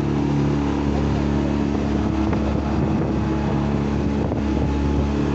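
Small boat's outboard motor running at a steady speed, with some wind on the microphone.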